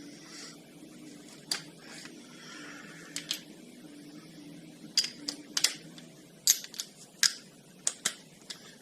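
Irregular sharp metallic clicks and taps, like hand tools and metal parts being handled on an ATV front hub, over a faint steady low hum. The clicks are sparse at first and come more often from about halfway through.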